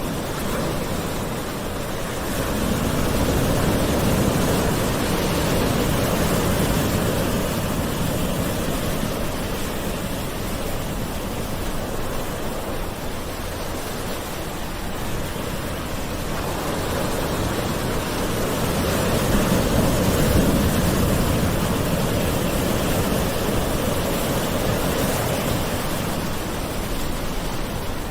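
Gentle ocean waves washing ashore in a steady hiss. The surf swells twice, a few seconds in and again about twenty seconds in.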